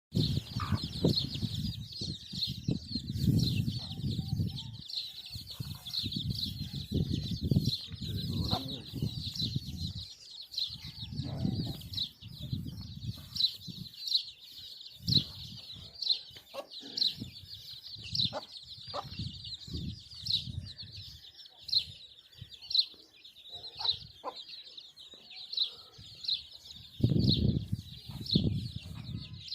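Hens clucking and flapping their wings in irregular bursts, over a steady high-pitched chirping that repeats about twice a second.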